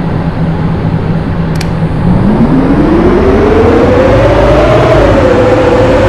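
An engine running steadily, then revving up about two seconds in: its pitch rises smoothly for a couple of seconds and holds at the higher speed.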